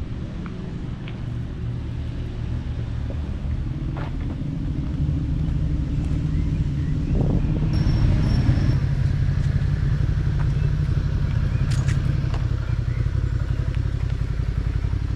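Formula One car engine running on the nearby circuit: a steady low drone that grows louder over the first half, then holds.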